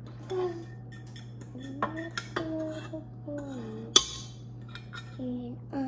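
A utensil clinking and knocking against a stainless-steel stand-mixer bowl, with one sharp clink about four seconds in. Soft voices come and go in between.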